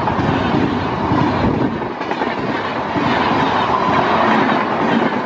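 LHB passenger coaches passing close by at speed: a loud, continuous rumble and clatter of wheels over the track, dipping briefly about two seconds in.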